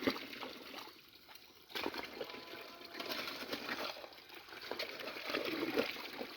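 Stream water splashing and trickling with irregular sloshes, quieter for a moment and then picking up suddenly about two seconds in.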